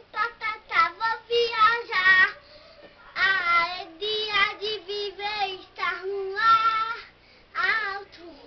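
A young child singing unaccompanied in a high voice, short sung phrases with held and wavering notes and brief pauses between them.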